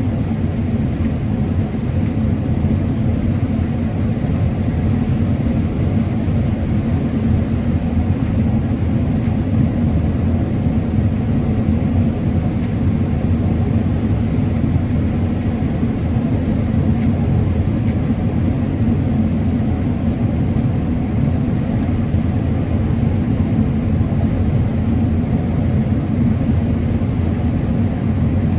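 Combine harvester running steadily while harvesting corn: an even, low machine drone that does not change.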